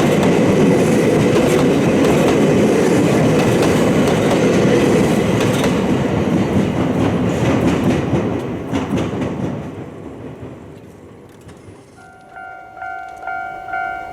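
A train passing over a level crossing, its wheels clattering on the rail joints, the noise dying away after about eight seconds. Near the end a Japanese crossing's electronic warning bell starts ringing, about two dings a second.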